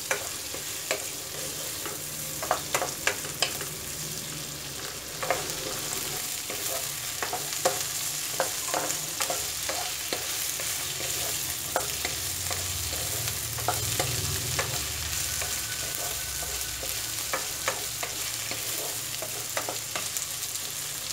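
Ivy gourd pieces sizzling in hot oil in a wok, stirred with a wooden spatula that scrapes and taps against the pan many times.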